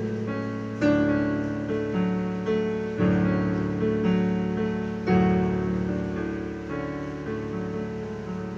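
Slow piano music: chords struck about every two seconds, each ringing and fading away before the next.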